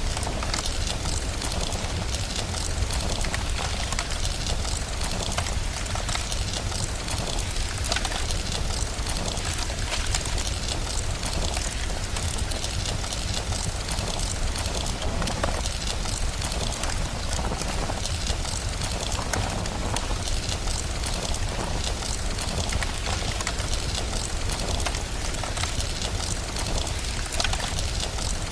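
Steady rain with a dense patter of small crackles over a constant low rumble, as in a rain-and-fireplace ambience track.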